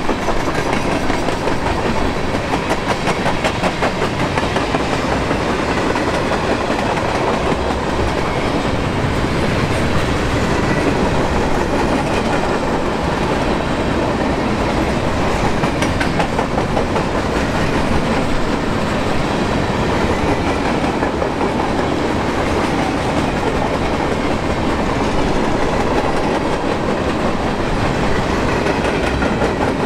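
Freight train of tank cars and covered hopper cars rolling past, its steel wheels rumbling steadily on the rails with a continuous clickety-clack.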